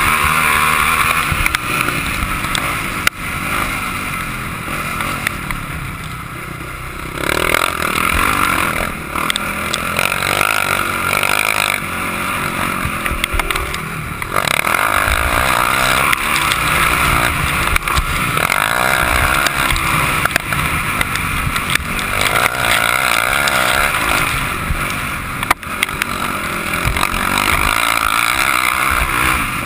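Motocross bike engine running hard around a dirt track, revving up and easing off again and again as the rider works the throttle.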